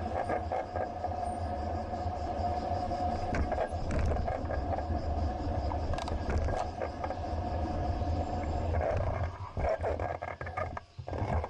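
Steady wind and road rumble on a bicycle-mounted action camera while riding, with a constant mid-pitched hum and a few light clicks; the noise becomes uneven and dips near the end.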